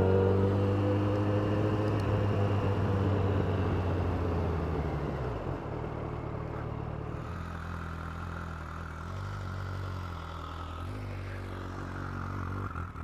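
Motor vehicle engines running nearby: one engine's hum rises slightly and fades away about five seconds in, leaving a quieter, steady low engine hum.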